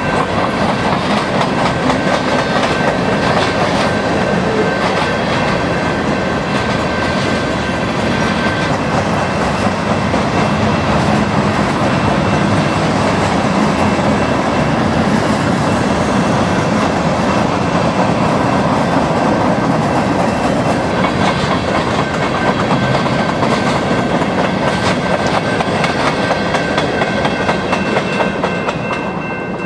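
CN freight train's cars rolling past: a steady rumble with the clickety-clack of wheels over the rail joints, easing off near the end as the last cars pass.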